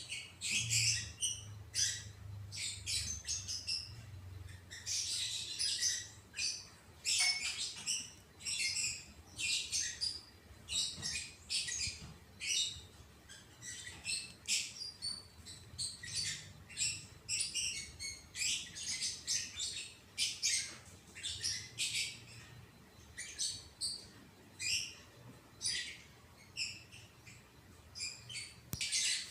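Small birds chirping over and over, several short high chirps a second without a break, over a faint low rumble that is strongest in the first few seconds.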